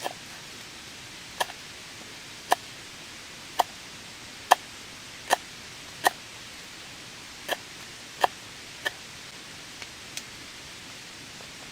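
Steady rain hiss with about a dozen sharp, irregularly spaced pops or snaps standing out above it.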